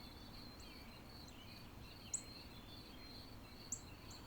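Faint outdoor ambience: a steady high insect trill with short, high bird chirps every second or so.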